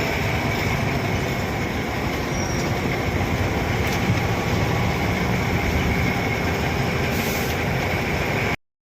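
A moving train: a steady rumble of wheels running on the rails, with a faint high squeal held throughout. It cuts off suddenly near the end.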